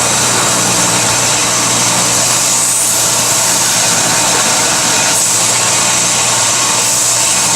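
Forge blower running steadily: a constant hum with a strong hiss of rushing air.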